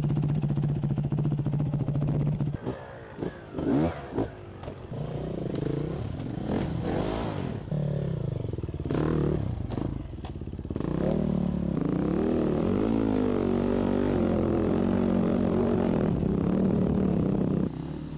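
Dirt bike engine running at a steady idle, then revved in uneven bursts with clattering knocks. Near the end it is held at higher revs that rise and fall, then cuts back suddenly.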